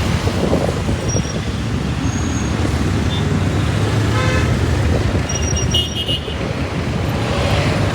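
Riding a motorcycle through city traffic: steady low rumble of engine and road, with a vehicle horn honking briefly about four seconds in and a short higher-pitched beep just before six seconds.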